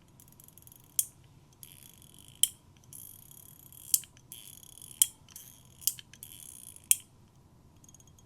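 A zirconium EDC fidget toy being worked by hand. Six times, about once a second, a short rasping slide ends in a sharp metallic click.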